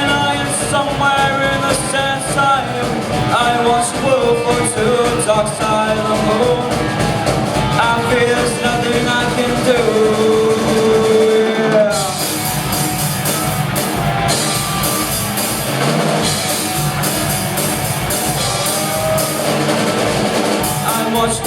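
A live rock band playing: drum kit, bass and electric guitars, with a melodic guitar line in the first half. About halfway through the cymbals come in and the sound becomes fuller and brighter.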